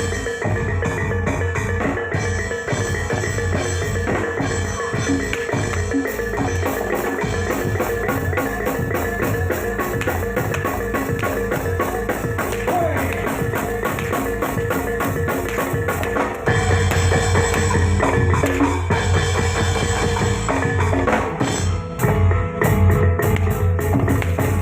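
Reog Singo Kubro accompaniment music: drums and gamelan-style tuned percussion playing a fast, steady rhythm. It gets louder about two-thirds of the way through.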